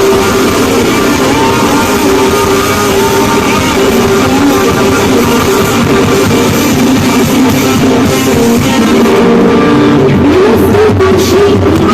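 Loud live band music with guitar and drums, played through a stage sound system.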